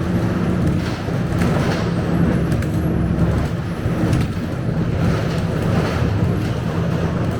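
Inside a Scania K270UB low-entry single-decker diesel bus under way: a steady engine hum and road noise, with a few short rattles now and then.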